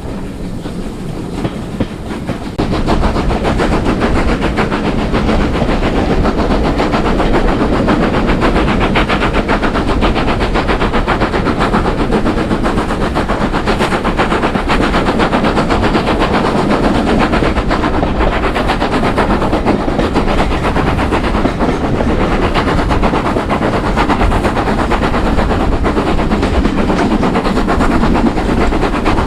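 Steam locomotive and train passing close by at speed, its rapid beats and wheel noise loud from about two and a half seconds in.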